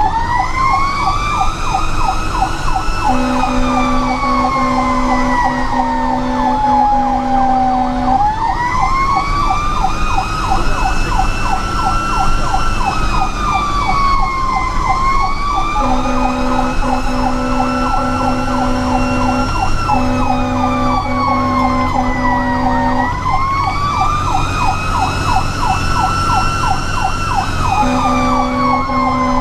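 Fire apparatus siren on a slow wail, rising and falling over about six or seven seconds at a time, with a faster warble running under it. It is joined four times by long, pulsing blasts of a two-note horn, each lasting several seconds.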